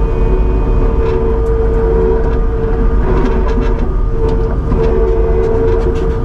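Kubota SVL75-2 compact track loader running and travelling: a steady deep diesel rumble with a constant whine over it and scattered clanks. A sound its first-time operator feels doesn't sound smooth.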